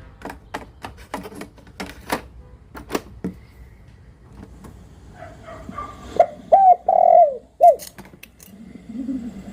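A dove cooing: three loud, arching coo notes about six to eight seconds in. Before them comes a run of sharp clicks, about two or three a second, over the first three seconds.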